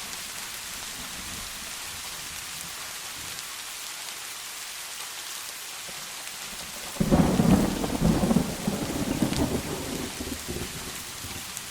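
Steady rain hissing, with a thunderclap breaking in suddenly about seven seconds in and rumbling on, fading over several seconds.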